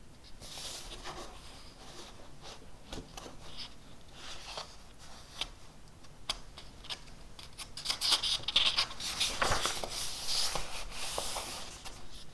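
Writing on paper: short scratching strokes, with a louder stretch of rapid rubbing and scratching from about two-thirds of the way in.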